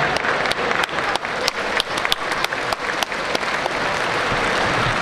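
Spectators applauding from the stands: separate handclaps ring out for the first three seconds or so over a general crowd noise, then the clapping thins into the crowd hubbub.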